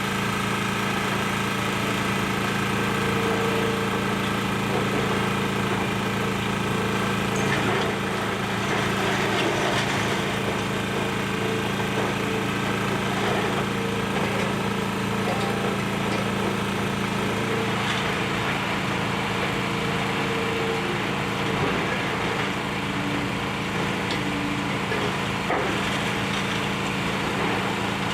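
Excavator's diesel engine running steadily, with a few faint clatters of debris now and then.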